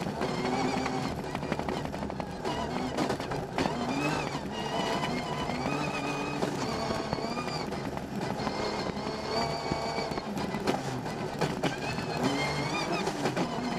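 Rally car engine heard from inside the cockpit, revs climbing and dropping again and again as the driver shifts through the gears, with frequent sharp clicks and knocks over it.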